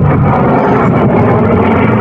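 Military jet flying past in an air-show display, its engine making a loud, steady roar.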